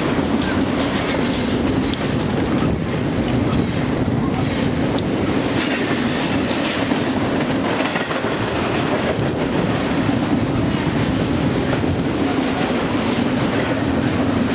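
Steady running noise of a moving vehicle, with a constant low hum and scattered faint clicks.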